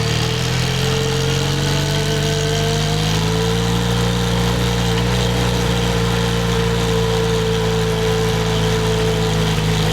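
Harley-Davidson X350's parallel-twin engine idling, its pitch rising slightly about three seconds in and then holding steady.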